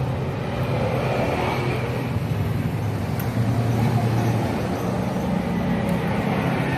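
Steady road-traffic noise: vehicle engines running, with a low rumble that shifts slightly in pitch, and a faint click about three seconds in.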